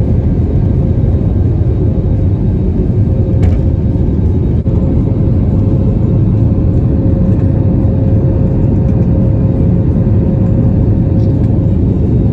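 Airbus A320 jet engines and airflow heard from inside the passenger cabin: a loud, steady rumble with a thin steady whine running through it.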